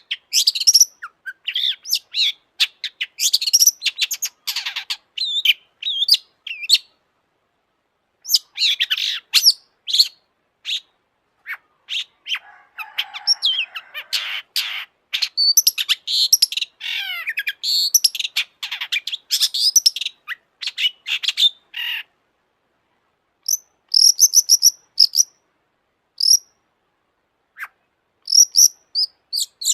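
Long-tailed shrike (cendet) singing a fast, varied song of sharp high chirps and quick sweeping notes in bursts, with a harsh scratchy stretch near the middle and a few short pauses.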